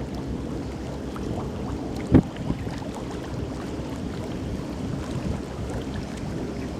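Wind buffeting the microphone over a steady low rumble, with one sharp knock about two seconds in.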